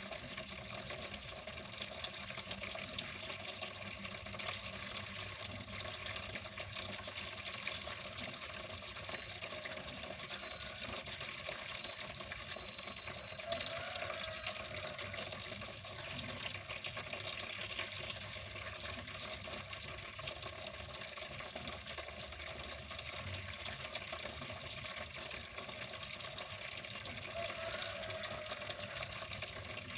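Water flowing steadily, a continuous even splashing rush with no pauses.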